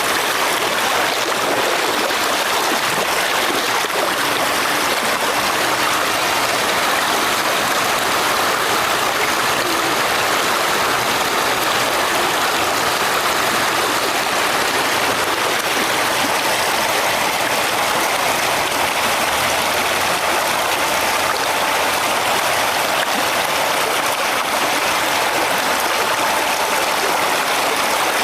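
Fast-flowing river current rushing steadily over rocks, a constant broad wash of water.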